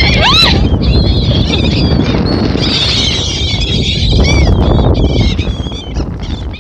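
A flock of birds calling, many short overlapping calls at once, over heavy wind noise on the microphone.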